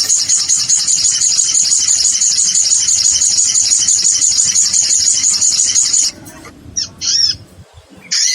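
Sogon bird-lure recording: a dense, rapid, high-pitched twittering that breaks off about six seconds in. A few separate chirps follow, then the twittering starts again near the end.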